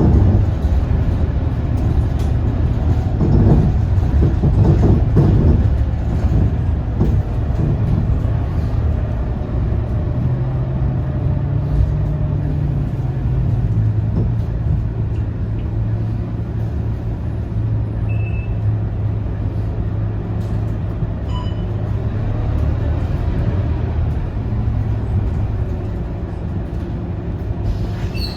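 Scania K230UB single-deck bus under way, its diesel engine running steadily with road and drivetrain noise, easing slightly near the end as the bus slows for a stop.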